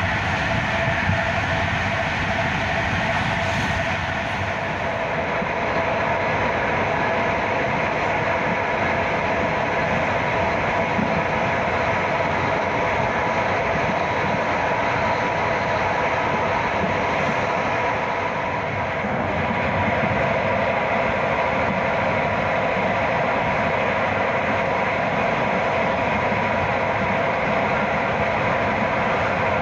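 Train running steadily on the rails: an even rumble of wheel and track noise, with a few steady tones over it.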